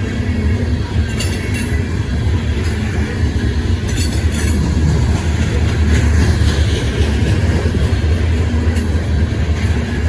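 Freight train rolling past: a steady, heavy rumble of wheels on rail, with two brief high-pitched bursts of wheel noise, about a second in and about four seconds in.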